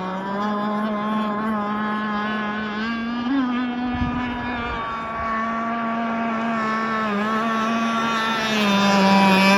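Engine of a fiberglass RC racing catamaran running steadily on the water, a new motor on its first tanks of fuel being broken in. Its pitch dips and rises slightly a few times, and it gets louder near the end.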